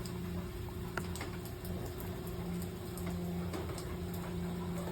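Steady low machine hum with scattered light ticks and taps over it.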